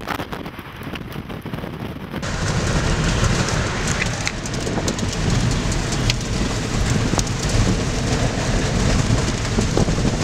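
Wind buffeting the microphone, then, after a cut about two seconds in, heavy rain hitting a vehicle's roof and windshield, heard from inside the cabin. It comes as a steady, loud wash over a low rumble, with scattered sharper taps from bigger drops.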